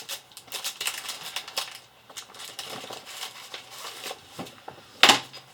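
Plastic and paper packaging of first-aid supplies crinkling and rustling as they are handled, in quick rustles and clicks, with one louder crinkle about five seconds in.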